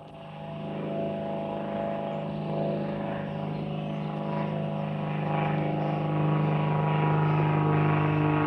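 Aircraft engine drone growing steadily louder as the plane approaches, a hum of several steady tones.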